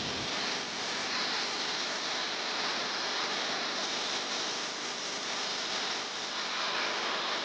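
Steady hiss of water spraying from a car wash nozzle onto a car.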